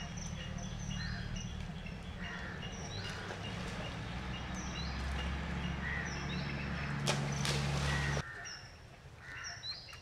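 Birds calling with many short, repeated chirps over a steady low rumble. About seven seconds in a louder rush of noise lasts about a second, then the rumble cuts off suddenly while the chirps go on.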